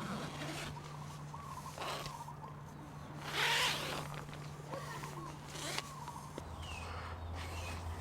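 A zipper pulled once, briefly, about three and a half seconds in, over a steady low hum and faint, repeated chirping calls.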